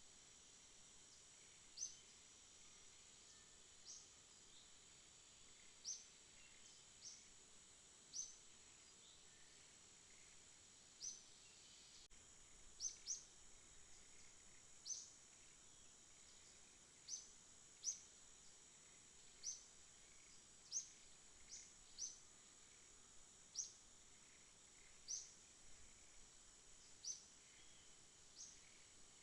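Night outdoor ambience: a faint, steady high-pitched insect drone with short high chirps repeating irregularly every second or two.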